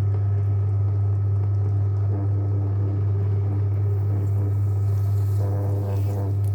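JW Ratcliffe electric pottery wheel's motor running with a steady low hum, with faint higher tones coming and going.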